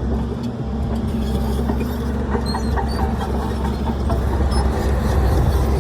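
Heavy diesel engine of earthmoving machinery running steadily under load, with a few short high squeaks about halfway through.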